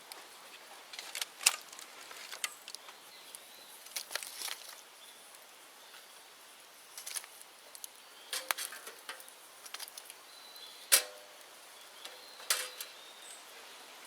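Open bonfire of cleared bamboo crackling, with irregular sharp pops and cracks. The loudest come about a second and a half in and again near eleven seconds.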